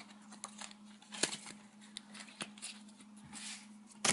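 Playing cards being handled on a table: a few scattered light taps and short soft slides of cards.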